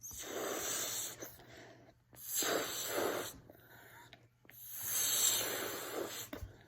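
A person blowing up a balloon by mouth: three long breaths pushed into it, with short pauses between them.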